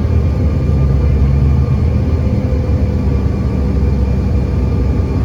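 Airliner engines droning steadily, heard inside the passenger cabin: a loud, even low rumble with a few steady humming tones over it.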